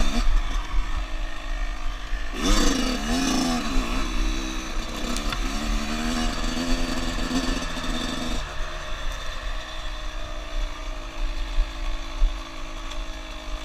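Small off-road vehicle engine running, revving briefly about two and a half seconds in, then dropping to a lower, quieter running note after about eight seconds.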